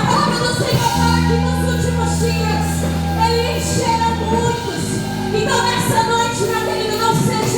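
Live gospel praise music: a band with sustained bass and keyboard chords under a sung melody line.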